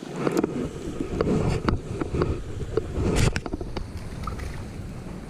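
Wind buffeting the microphone, with irregular clicks and knocks from handling.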